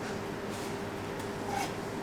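Steady room hum with a faint constant tone, with a couple of faint short clicks.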